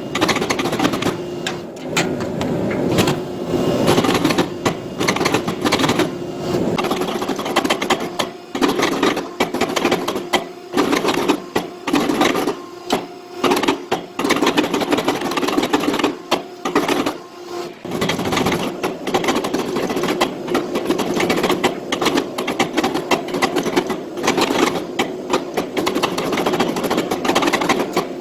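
A machine running with a steady hum and rapid, irregular knocking and clattering.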